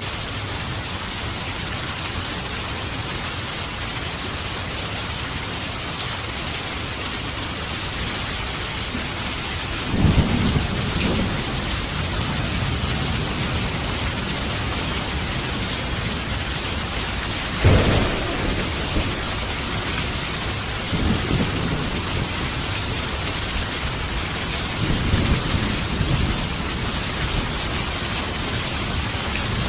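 Steady heavy rain with rolls of thunder: a rumble about a third of the way in, a sharper, louder crack a little past halfway, and softer rumbles near the end.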